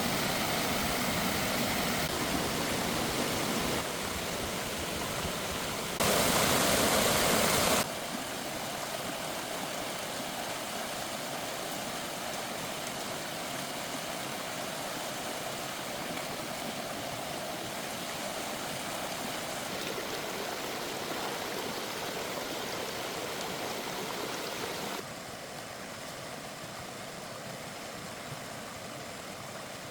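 Running water, a steady rush that jumps in level several times, loudest briefly about six to eight seconds in and quieter for the last few seconds.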